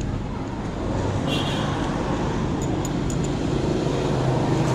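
A motor vehicle engine running steadily, a little louder from about a second in, with a few light clicks in the middle.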